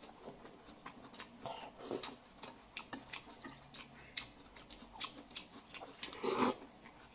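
Close-miked eating: people chewing and biting soft braised pork belly, with many small, irregular wet mouth clicks and smacks, and one louder mouthful sound about six seconds in.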